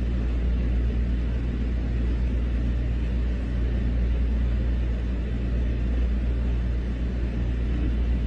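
Steady low rumble at an even level, with no distinct knocks or other events.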